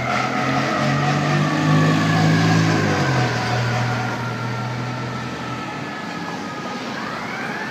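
Fire truck siren winding slowly down in pitch, then rising again near the end, over the low sound of a heavy truck engine.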